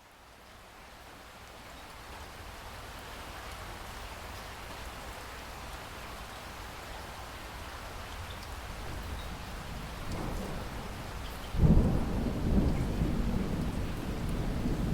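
Steady rain hiss fading in, with thunder rumbling low. About three-quarters of the way through a loud burst of thunder breaks in and rolls on.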